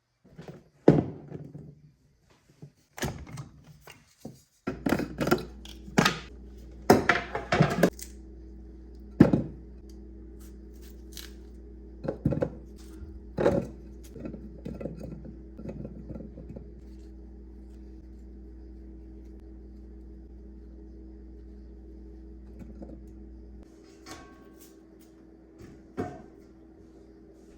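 Household objects being handled and set down, a series of sharp knocks and clinks, busiest in the first half. Under them a steady appliance hum sets in about five seconds in and drops away near the end.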